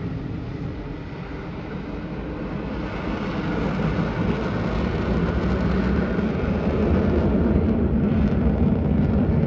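Aircraft engine rumble, a steady low noise that dips about a second in and then grows slowly louder.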